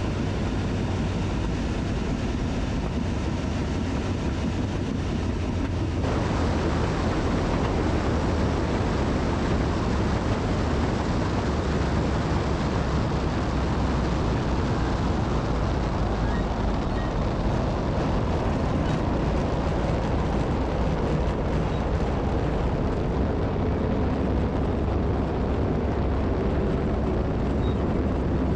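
Pitts Special biplane's piston engine and propeller running steadily, heard from inside the cockpit with heavy wind and airflow noise. The sound steps up slightly about six seconds in.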